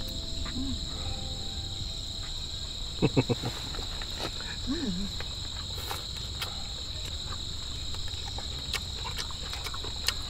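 Steady chorus of insects, two shrill continuous tones holding one pitch throughout. A few short low vocal sounds come about three seconds in and again near five seconds.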